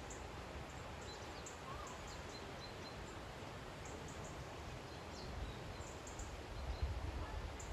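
Outdoor ambience: small birds chirping briefly now and then over a steady rushing background noise. A low rumble with a few bumps comes in near the end.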